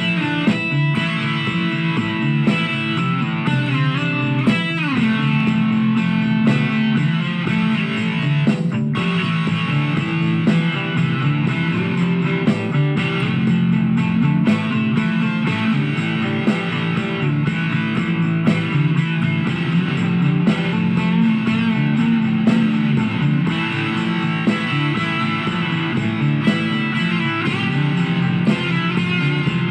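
Guitar music, electric-sounding, playing continuously, with a falling pitch glide about four to five seconds in.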